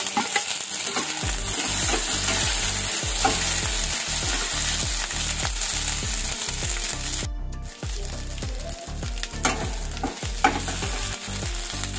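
Sliced onions and capsicum sizzling in hot oil in a non-stick kadhai while a metal slotted spatula stirs them, scraping across the pan. A few sharp spatula taps on the pan come in the last few seconds.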